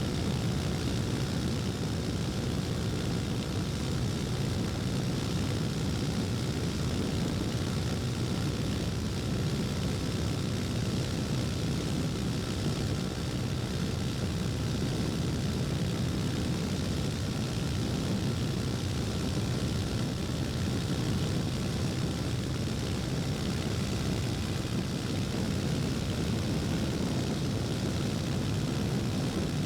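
KTM Duke 250's single-cylinder four-stroke engine running at a steady cruise on the move, with a steady rush of wind and road noise, its pitch holding even without revving up or down.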